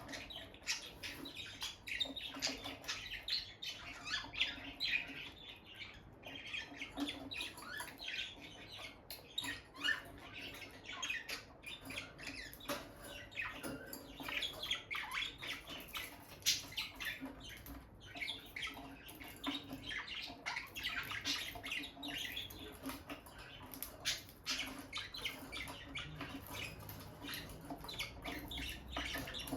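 Peach-faced lovebirds chattering with a steady stream of quick, high chirps and squawks, over a faint low hum.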